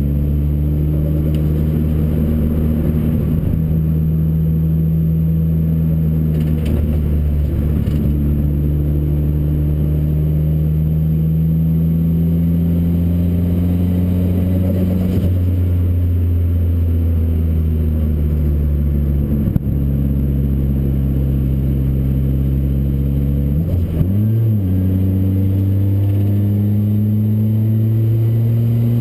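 Modified Ford Focus RS engine in a Ford Racing Puma, heard from inside the car at speed on track: the engine note climbs steadily through each gear and drops at the changes several times, with a short sharp rev blip late on.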